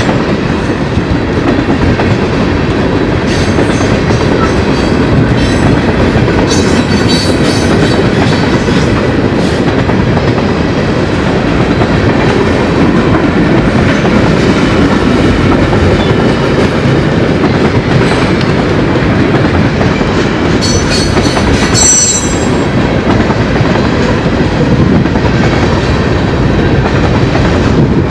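Freight train of tank cars and boxcars rolling past: a steady, loud rumble and clickety-clack of steel wheels on the rails. Short high-pitched wheel squeals come through a few times about a quarter of the way in and again about three quarters through.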